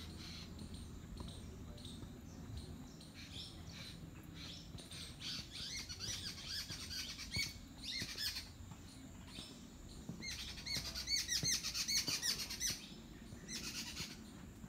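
Small birds chirping in quick repeated calls, in clusters that grow louder and busier a little past the middle, over faint outdoor background noise.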